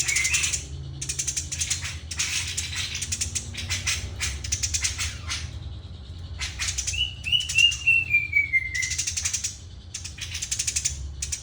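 A tame Eurasian tree sparrow makes repeated bursts of rapid rattling chirps. About seven seconds in comes a falling run of clear whistled notes.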